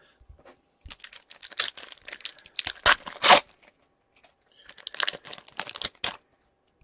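Foil wrapper of a hockey trading card pack being torn and crinkled, in two spells of dense crackling about a second in and again near the end.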